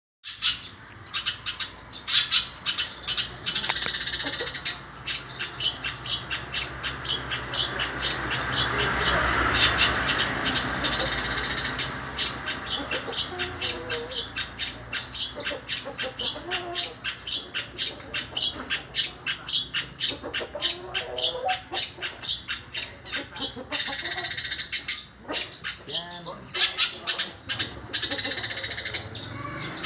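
Long-tailed shrike singing a fast, continuous string of short chirps in imitation of a Eurasian tree sparrow, broken four times by a harsh chatter lasting about a second.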